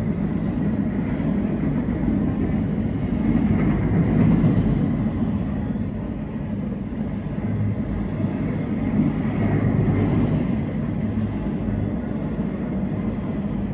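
A train passing along the tracks below, a steady rumble with a low drone. It grows louder about four seconds in and again near ten seconds.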